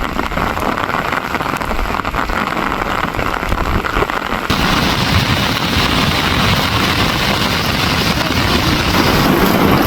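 Heavy rain falling steadily, getting suddenly louder and fuller about halfway through.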